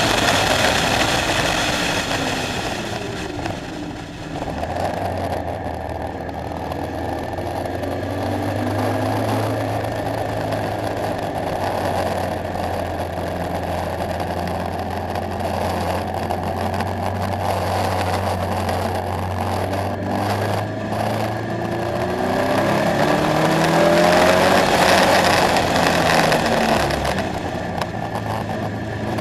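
KTM X-Bow sports car's engine under way on track: loud at first, lifting off about four seconds in, then running at a steadier, lower note for a long stretch before accelerating again with rising pitch, loudest a few seconds before the end, and easing off.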